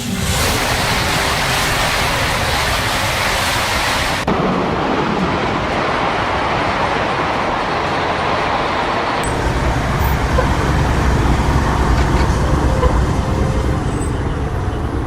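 Rushing noise of a train running at speed, with no music. It changes abruptly about four seconds in and again about nine seconds in, as if three separate recordings were spliced together.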